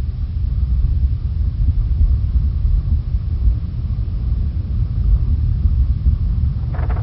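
Earthquake sound effect: a deep, continuous rumble. Near the end a crackling layer comes in on top.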